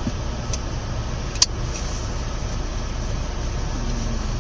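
Steady low rumble inside a car's cabin, with a single sharp click about a second and a half in.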